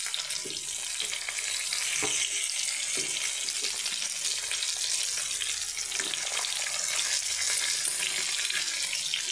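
Vegetables frying in hot mustard oil in a pan, a steady sizzle, with a few soft taps as tomato wedges drop in.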